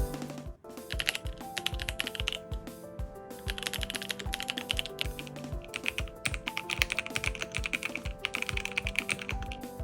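Typing on a TX108 full-size mechanical keyboard with linear Richberry switches and PBT keycaps: a rapid run of crisp keystrokes that starts about half a second in.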